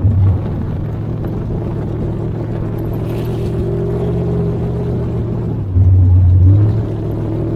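Race car engines running on the track, a steady engine drone with gentle rises and falls in pitch. It swells louder twice, briefly right at the start and again about six seconds in, as cars pass close.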